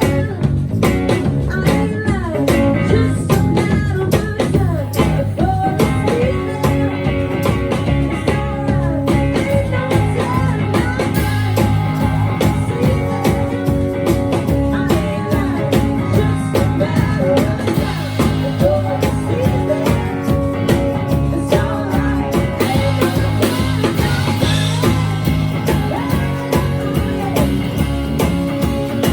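Rock band playing a cover song live: a lead voice singing over electric guitar, bass and a steady drum beat.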